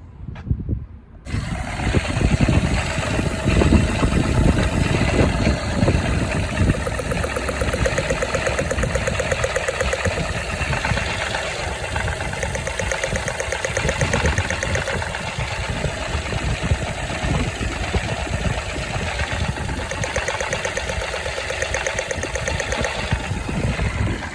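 Toyota Aygo's 1.0-litre three-cylinder petrol engine running at idle. It comes in suddenly about a second in and is more uneven for the first few seconds, then settles into a steadier run.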